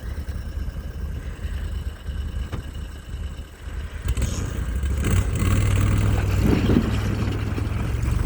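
An engine running steadily, growing louder about halfway through as if revved or coming closer.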